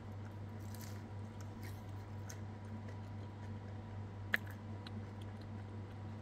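Faint chewing of a crisp aloo paratha, with small crunches and one sharper click about four seconds in, over a steady low hum.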